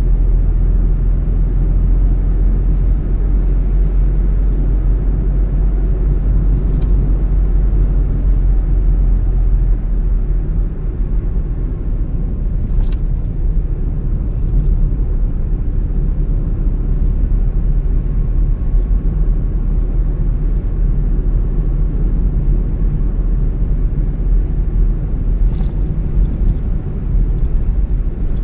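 Car driving along a road: a steady low rumble of road and tyre noise, with a few brief high ticks now and then and a cluster of them near the end.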